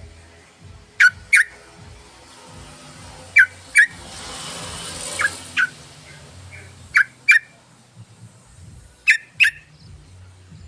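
Yellow-vented bulbul (trucukan) calling: a pair of short, sharp notes repeated about every two seconds, five pairs in all. A soft hiss swells and fades in the middle.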